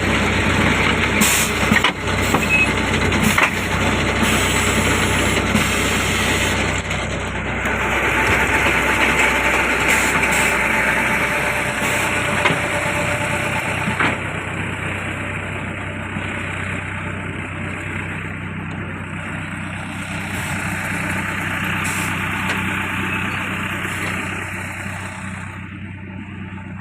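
Brick-making machine's engine running steadily, with a few sharp clacks along the way and a hiss that swells and fades twice.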